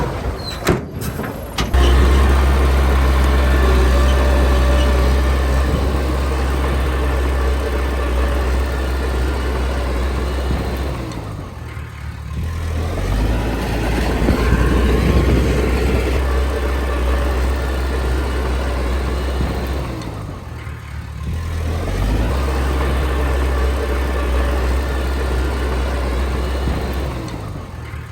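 Heavy diesel earthmoving machinery running steadily with a deep engine hum, with a few clicks at the start and the engine pitch rising and falling near the middle. The sound dips briefly twice.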